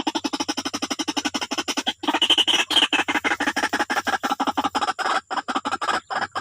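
White-breasted waterhen (wak-wak bird) calling: a loud, fast run of harsh repeated croaking notes, many a second, with brief breaks about two seconds in and again near the end.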